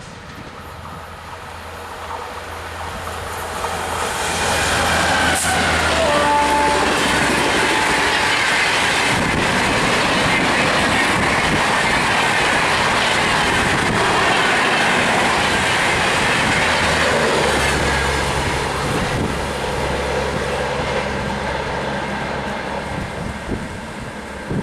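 An Indian Railways express train passing at speed. It builds up over the first few seconds, then its coaches go by with a loud, sustained clatter of wheels on rail joints. It slowly fades as it recedes, leaving a low engine hum.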